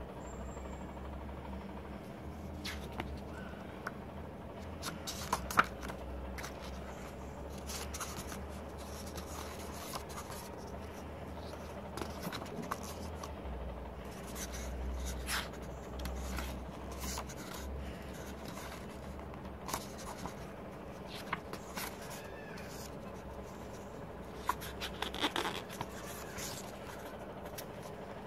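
Paper, card and plastic album packaging being handled and unwrapped: scattered rustles, scrapes and small taps over a low steady hum.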